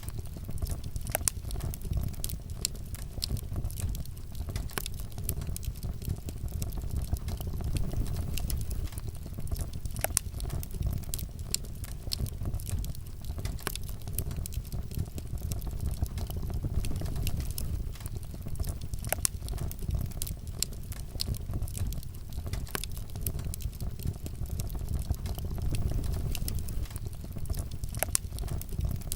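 Wood fire burning steadily in a fireplace: a low rumble of flames with frequent irregular sharp crackles and pops.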